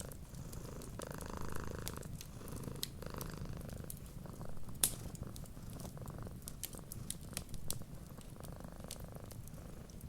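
Cat purring steadily, a low pulsing rumble, layered with the crackle of a wood fire: scattered sharp pops, the loudest one near the middle.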